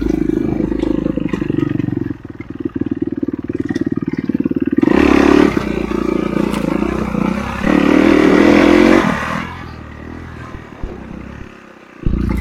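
Enduro motorcycle engine running under varying throttle, revving up hard about five and eight seconds in, easing to a quieter low run near the end, then picking up again.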